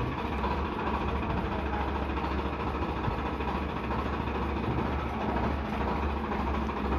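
Heavy machine's diesel engine running steadily at idle, a deep low hum.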